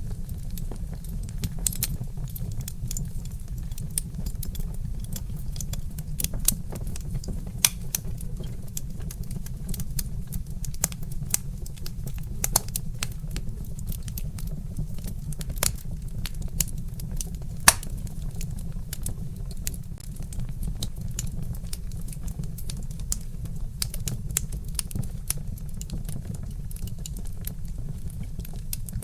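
Log fire crackling, with irregular sharp pops and snaps over a steady low rumble; one pop about two-thirds of the way in is louder than the rest.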